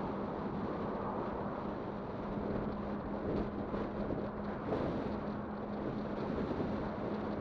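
Wind buffeting the microphone over the rumble of a Kugoo Kirin V5 e-bike being ridden, with a steady low hum from its electric motor.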